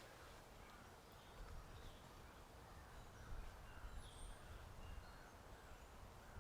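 Faint birdsong, scattered short high chirps, over a low rumble of wind.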